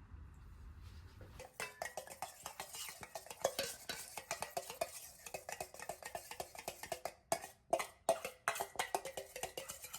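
Utensil stirring and mixing in a bowl: quick, rapid clinks and scrapes that start about a second and a half in.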